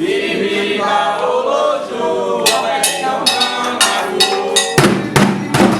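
Candomblé song for Xangô: voices chanting a sacred song, with sharp bell strikes starting about two and a half seconds in, typical of the agogô, and drums joining in a steady beat near the end.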